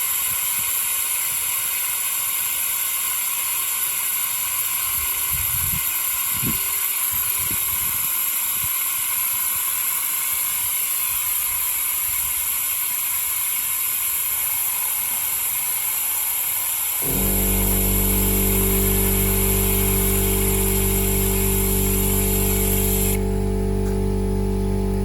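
Oil extractor hissing steadily as it sucks oil out of the oil filter housing. About two-thirds of the way through, a loud, low, steady hum comes in, and the hiss stops near the end.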